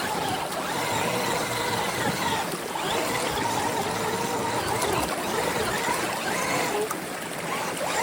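Electric motor of an RC rock crawler whining, its pitch rising and falling as the throttle is worked, over a running stream.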